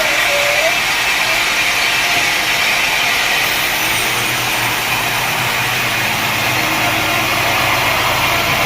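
Sawmill machinery running with a loud, steady mechanical noise. A thin whine comes through at the start and again at the very end.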